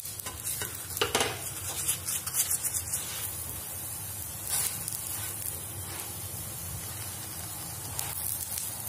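Paratha frying in oil on a hot tawa, sizzling steadily, with a few knocks and scrapes of a spatula pressing and turning it, most of them in the first three seconds.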